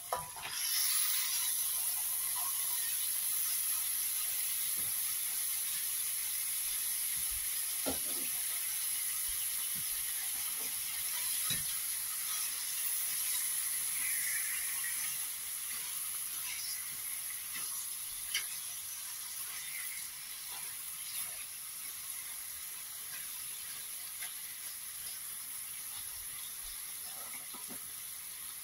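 Raw chicken pieces sizzling in a pan of hot spiced onion and tomato masala. A steady high hiss starts as the chicken goes in and slowly eases, with a few knocks of a spatula stirring against the metal pan.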